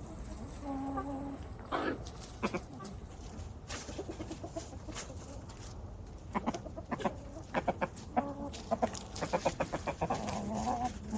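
Backyard chickens clucking, with a few drawn-out calls and a run of quick clucks in the second half.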